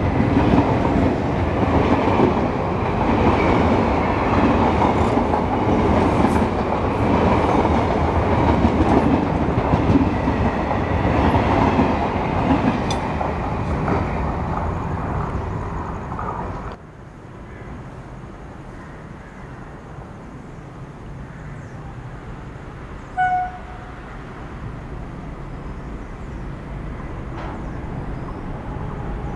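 Coaches of a passing passenger train rolling by at speed close to the track, wheels rumbling and clattering over the rails, easing as the last coaches pass. About two-thirds through it drops suddenly to a quieter background with one brief tone, and the low rumble of an electric locomotive-hauled train approaching rises near the end.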